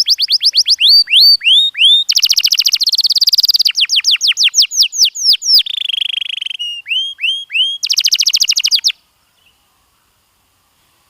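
Domestic canary singing: fast trills of one repeated note after another, switching to a new trill type every second or so. The song stops about nine seconds in.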